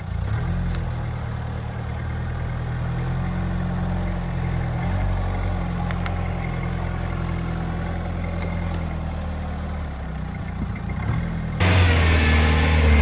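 Off-road four-wheel-drive vehicle's engine running at low revs as it crawls over rocks, its pitch drifting up and down a little. A little before the end the sound suddenly gets louder and brighter, with the engine revving.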